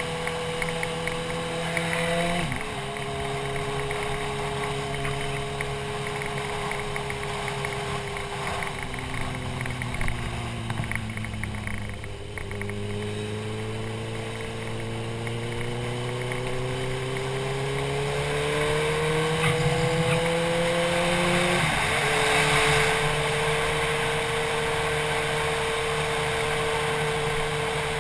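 Motorcycle engine running under way: it shifts up about two seconds in, the engine slows and then pulls back up in a long climb in pitch, and it shifts up again near the end.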